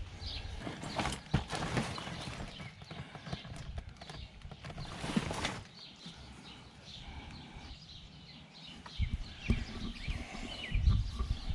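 Knocks, clinks and rustling of dishes and other hard household items being handled and set down, with a run of heavier low thumps near the end.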